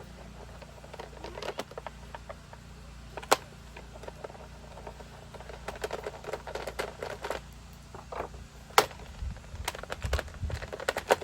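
Scattered small clicks and knocks of a chainsaw and hand tools being handled at a bench vise, with a busier run of light clicking midway and two sharper knocks, about three seconds in and near nine seconds.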